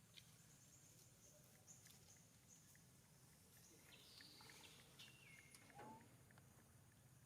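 Faint outdoor ambience of high, stepped chirping bird calls, a few times, over a low steady hum and scattered light clicks.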